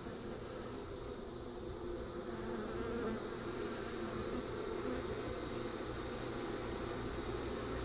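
Honey bees buzzing steadily in a dense swarm-like hum around open hive boxes, growing slightly louder about three seconds in.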